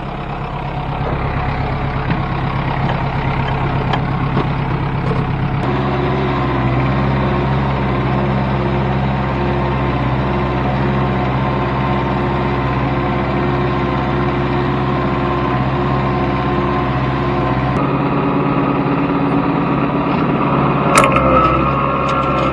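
Tractor engine running at a steady speed, its note shifting a couple of times, with a sharp click near the end.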